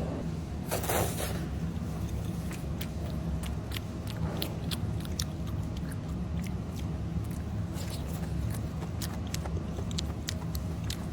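Eating sounds: scattered small clicks and taps, like utensils and chewing, over a steady low rumble. A short rustling burst about a second in.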